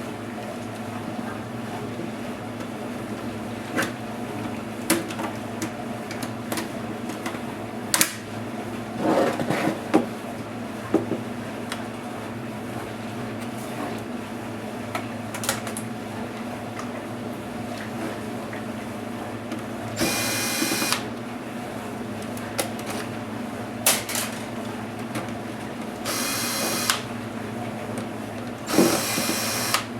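Clicks and light knocks of small laptop parts and tools being handled, and three short whirs of a small electric screwdriver running, each about a second long, about two-thirds in and twice near the end. A steady low hum runs underneath.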